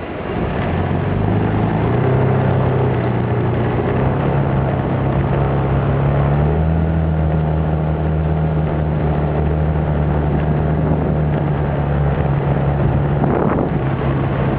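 Small motorbike engine running while riding. It picks up speed over the first two seconds, holds a steady pitch, and steps up slightly about six and a half seconds in.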